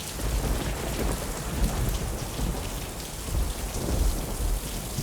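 Steady rain with low rolling thunder rumbling under it, swelling about two and four seconds in.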